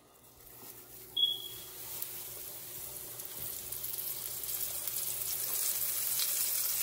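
Floured quail frying in hot oil in a pan, the sizzle growing steadily louder. About a second in, a pet bird gives one short high chirp.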